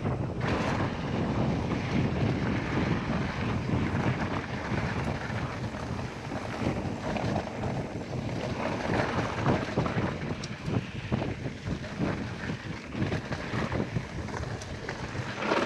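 Wind buffeting the action camera's microphone as a mountain bike rolls down a dirt trail, with frequent knocks and rattles from the bike over bumps.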